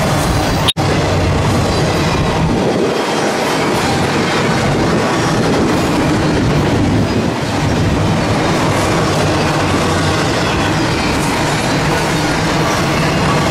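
Double-stack intermodal container train's well cars rolling past, a steady loud rumble of steel wheels on rail with clicking over the rail joints. The sound drops out for a split second just under a second in.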